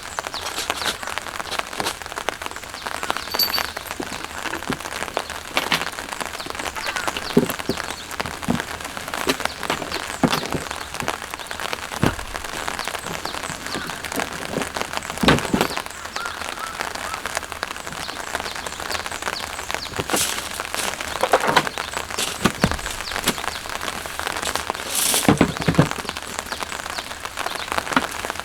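Steady rain, with many separate drops striking close by in quick irregular succession.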